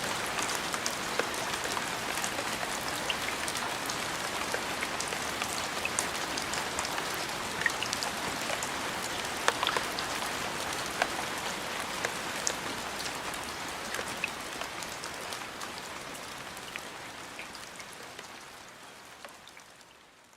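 Steady rain falling on a hard surface, with individual drops striking close by. It fades out gradually over the last several seconds.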